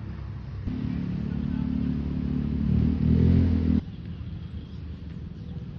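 A motor vehicle's engine running, growing louder over about three seconds, then cut off abruptly about two thirds of the way through.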